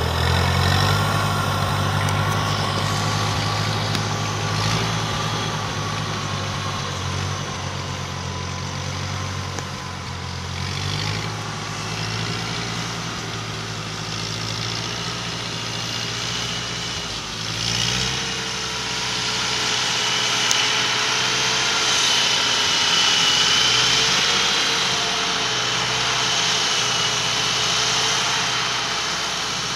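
1947 Ford 8N tractor's four-cylinder engine running steadily as the tractor is driven. Its note changes about a third of the way in and again a little past halfway, and a thin high whine joins over the second half.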